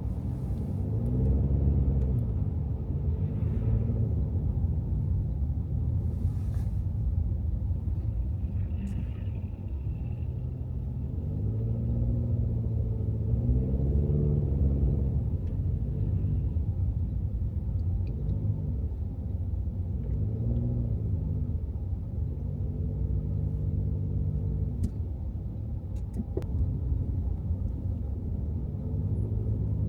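Car driving in city traffic: a steady low rumble of engine and tyres, with an engine note that rises and falls a few times.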